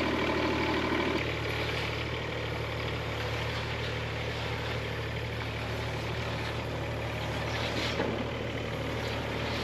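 Diesel engine of a Case 1.7-tonne mini excavator running steadily. A higher hum on top of it stops about a second in.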